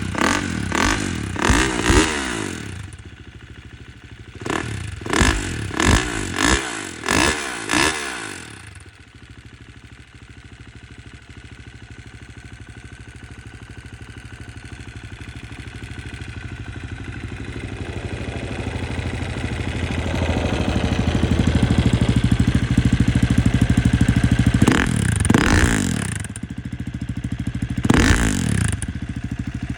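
KTM 350 EXC-F single-cylinder four-stroke enduro engine blipped repeatedly with quick revs, then idling steadily and slowly growing louder, with two more rev blips near the end.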